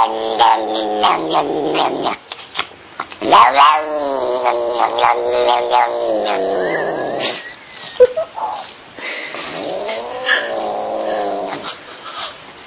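Domestic cat yowling in long, drawn-out wails that bend up and down in pitch, three long stretches with short breaks between. A sudden sharp noise about eight seconds in is the loudest moment.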